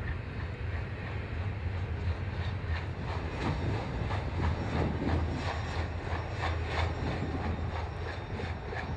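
Train rolling past on the rails: a steady low rumble, with the rhythmic clicking of wheels over rail joints, a few clicks a second, coming in about three seconds in.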